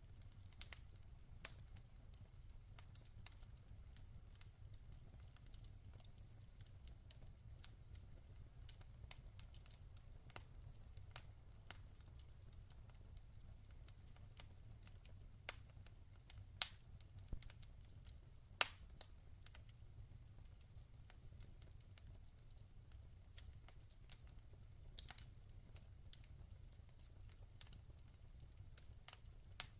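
Log fire crackling: scattered sharp pops and snaps at irregular intervals, two louder pops about two-thirds of the way through, over a faint low hum.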